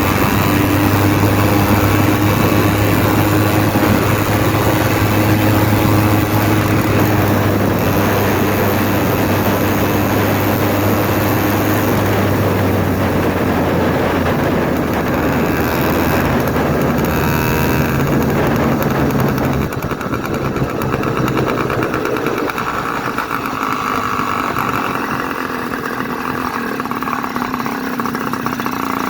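Zeda 66/80cc two-stroke motorized-bicycle engine running loud with its muffler cap and air filter cover off, the open exhaust and intake unmuffled. The revs hold steady for the first dozen seconds, then rise and fall.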